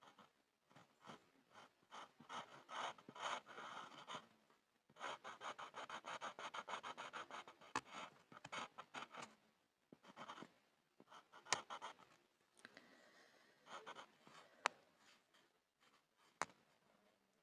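Pencil scribbling on a board: bursts of quick, scratchy back-and-forth strokes, densest about a third of the way in, with a few sharp ticks in the second half.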